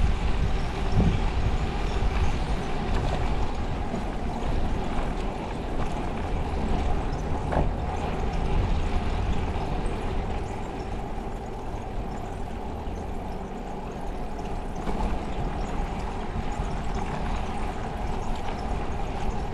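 Wind buffeting the microphone and road noise while riding a bicycle, with a steady low hum underneath.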